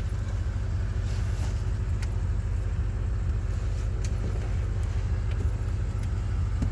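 Steady low rumble of a BMW M8 Competition's twin-turbo V8 idling.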